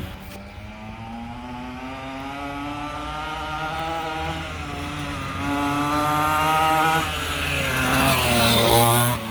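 Aftermarket 49cc engine on a small kids' dirt bike running under throttle. Its note climbs as the bike picks up speed, eases, then climbs again. It is loudest and wavers in pitch near the end, then cuts off abruptly.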